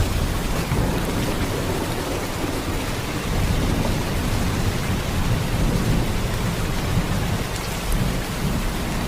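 Heavy rain: a steady downpour with a deep low rumble under the hiss of the drops.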